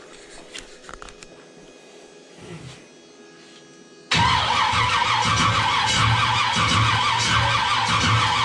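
Chevy small-block V8 being cranked over by its starter, starting abruptly about four seconds in with a pulsing churn and a starter whine; it stops after a few seconds without the engine catching, a failed start attempt.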